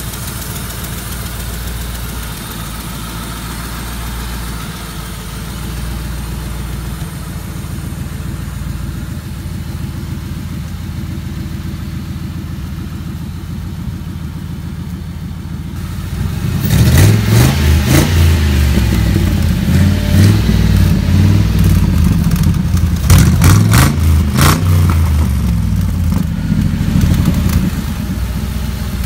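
V8 engine in a 1946 Ford pickup running through short open headers: it idles steadily, then is revved in a string of throttle blips from a little past halfway until near the end, before settling back to idle.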